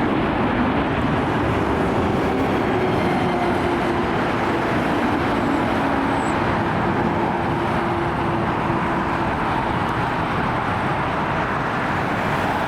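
Airbus A380-861's four Engine Alliance GP7200 turbofans at takeoff thrust: a steady, loud jet rumble as the airliner climbs away, with a faint low tone in it that fades out near the end.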